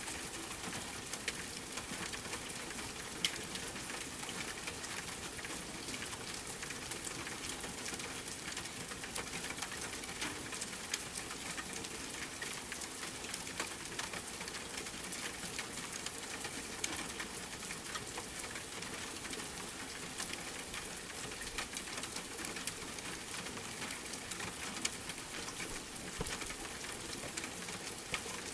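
Steady rain hiss with a wood fire crackling: many small, sharp pops scattered throughout, one louder pop about three seconds in.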